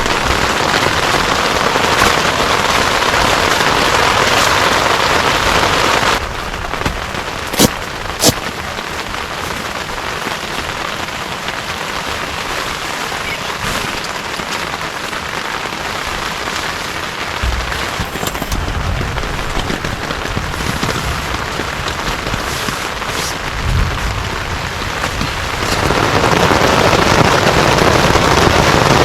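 Heavy rain falling steadily, a continuous hiss. It drops suddenly to a softer level about six seconds in and swells back up near the end. Two sharp taps come a second or two after the drop.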